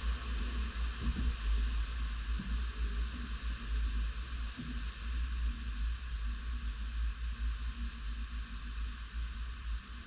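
Tropical storm wind blowing hard in gusts, buffeting the microphone with an uneven low rumble over a steady hiss.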